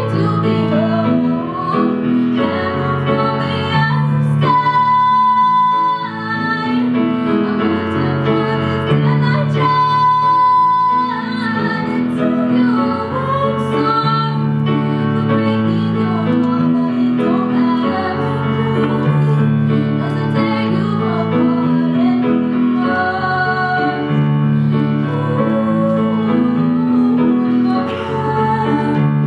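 A female voice singing a slow song over piano accompaniment, holding a couple of long notes.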